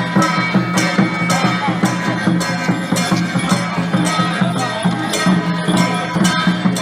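Loud Taiwanese temple-procession music: percussion struck in a steady beat about twice a second over sustained pitched instrument tones.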